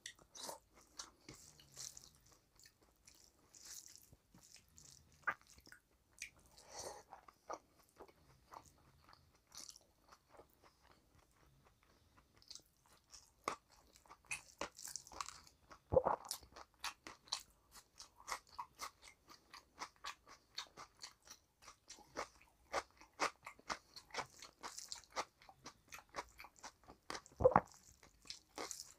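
Close-miked chewing of a mouthful of rice and curry eaten by hand: wet, smacking mouth sounds and irregular crunches, with a few louder crunches about halfway through and near the end.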